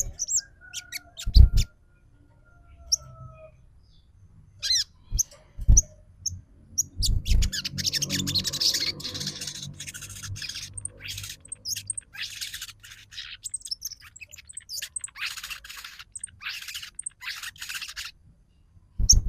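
A sogon singing its rapid chattering trotol song: scattered chirps and a falling whistle at first, then a long run of fast chatter from about a third of the way in, with a few low thumps in the first half.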